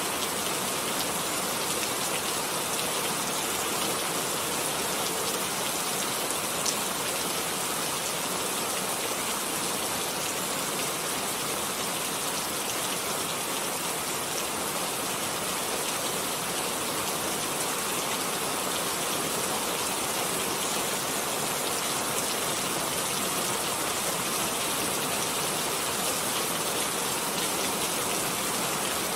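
Steady rain falling, an even hiss of many drops, with one small tick about seven seconds in.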